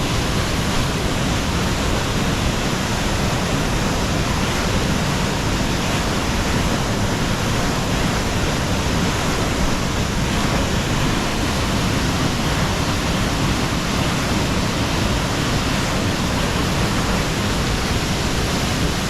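Falling water making a steady, unbroken rush.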